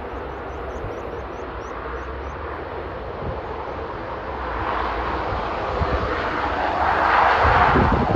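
Airliner engines growing louder as an aircraft passes close, their rushing noise swelling over the last few seconds. Strong wind rumbles on the microphone throughout.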